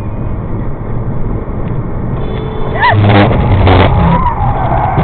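Steady car and road rumble. About three seconds in comes a short rising-and-falling squeal, then two sharp bangs close together, followed by a long wavering squeal.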